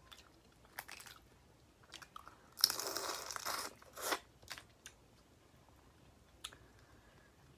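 Close-miked eating of boiled crawfish: scattered sharp cracks and crackles of shells being broken and peeled, and chewing. A louder, noisier crunch lasts about a second near the middle.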